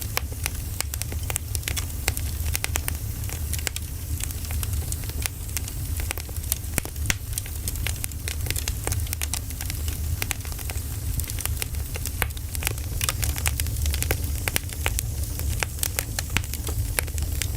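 Wood fire burning, with dense, irregular crackles and pops over a steady low rumble.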